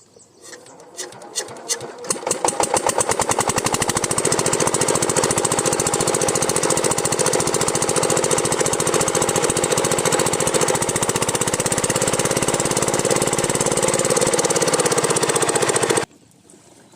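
8 hp Rajkot single-cylinder diesel pump-set engine starting up, its strokes speeding up over the first couple of seconds as it catches, then running with a steady rapid beat. The sound cuts off suddenly near the end.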